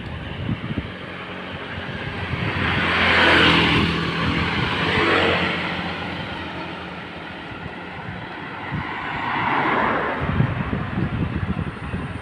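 Road traffic with wind buffeting the microphone: motor vehicles pass close by, one a few seconds in and another near the end, each swelling and fading away.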